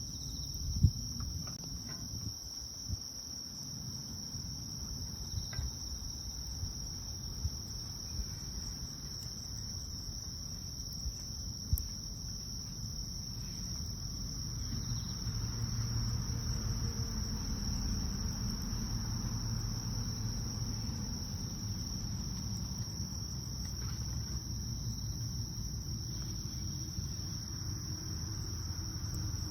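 Crickets chirring in one steady, unbroken high tone, over the low rumble of a wood bonfire that pops sharply now and then, loudest about a second in and near 12 seconds.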